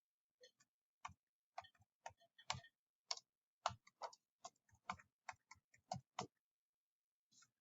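Faint, irregular light clicks and taps, about two or three a second and uneven in spacing, like someone typing or writing.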